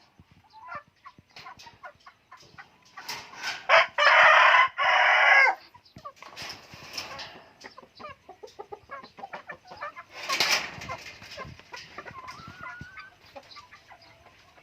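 Chickens clucking, with a rooster crowing once about four seconds in, the loudest sound here. Scattered short clicks and knocks run alongside.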